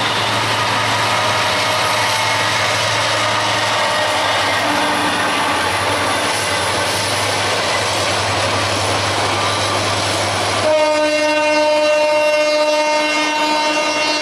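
Diesel-hauled passenger train passing close by: a steady low hum with the rumble of the coaches rolling on the rails. About eleven seconds in, a steady train horn starts suddenly and is held to the end, a little louder than the rumble.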